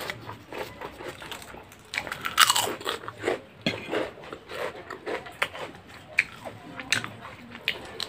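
Close-up eating sounds: crisp papad and raw red onion bitten and chewed by mouth, a run of sharp crunches loudest about two and a half seconds in.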